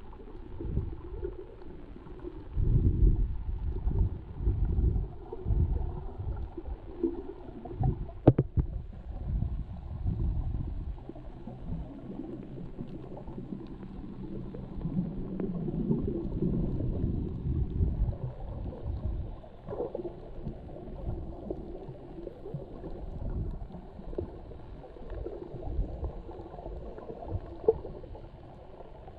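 Muffled low rumbling and gurgling of seawater, swelling and fading unevenly, with one sharp click about eight seconds in and a faint steady hum for several seconds in the middle.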